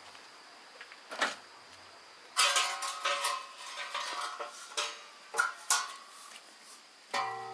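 Iron bars clanking and clinking against each other as they are handled, with one knock about a second in, a busy run of clanks in the middle, and a strike near the end that rings on.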